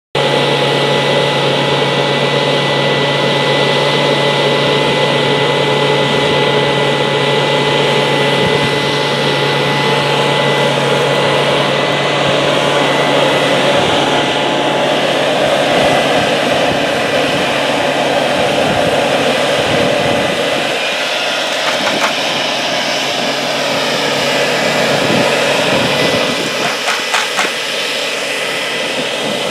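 Dry washer's engine-driven blower running steadily: a loud, even rush of air over an engine hum with a fixed whine. A few light knocks near the end.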